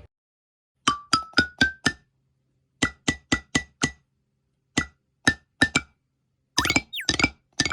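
A simple tune picked out note by note on a small keyboard or tuned percussion instrument: short struck notes that die away quickly, the first five stepping upward, then groups of repeated notes. Near the end a budgerigar gives a brief whistle that slides down and back up between the notes.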